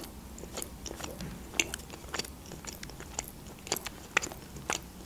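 Close-miked chewing of a bite of an open sandwich of bread with fish: irregular wet mouth clicks and smacks, several a second.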